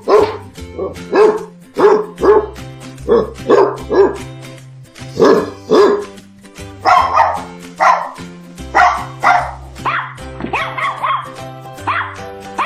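Dog barking over and over, roughly two barks a second with a few short pauses, over background music with a steady bass line.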